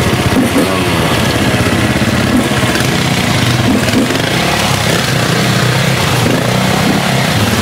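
Dirt bike engine running steadily, its pitch wavering slightly as the throttle changes.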